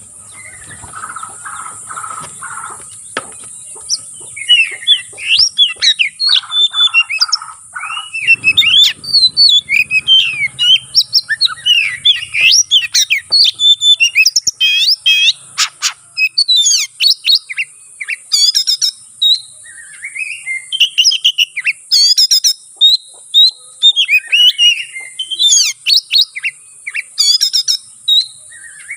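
Oriental magpie-robin (kacer) singing a rapid, varied fighting song of quick whistles, slurred notes and chatters in short bursts with brief pauses, the 'konslet' style of a bird in fighting mood, packed with mimicked phrases. A steady high hiss runs underneath.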